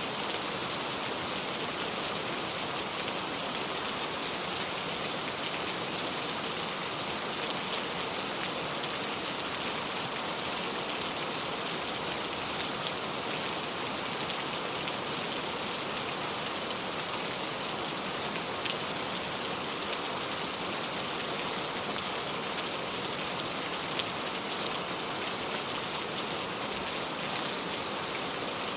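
Heavy rain pouring steadily, an even hiss of falling water with scattered individual drops ticking on a surface.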